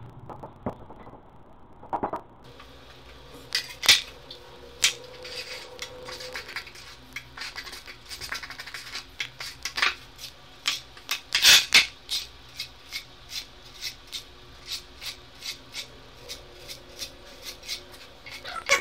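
Hand-tool work on hard material: a series of sharp clicks and knocks, irregular at first, then an even run of about two to three clicks a second.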